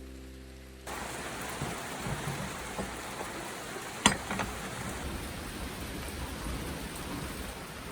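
Steady heavy rain falling. It comes in as a music track cuts off about a second in. There is one sharp tap about four seconds in.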